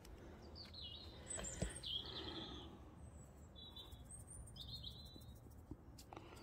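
Wild birds chirping in short gliding calls, in two bursts, over faint outdoor background noise, with a soft click about a second and a half in.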